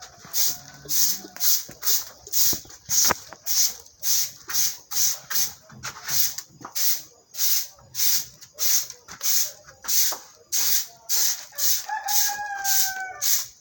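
Rhythmic brushing or sweeping strokes, about two a second, each a short hiss. Near the end a rooster crows once, a single call of just over a second that falls slightly in pitch.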